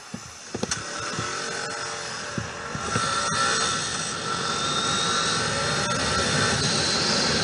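Motorcycle engine revving as the bike pulls away and gathers speed, under a rising rush of wind noise that then holds steady.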